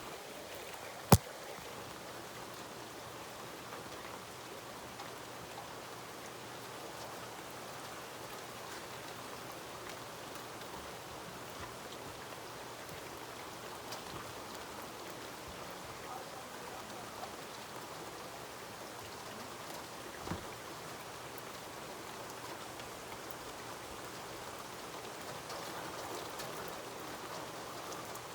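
Steady rain falling, an even patter. A single sharp click stands out about a second in, and a softer knock comes around twenty seconds in.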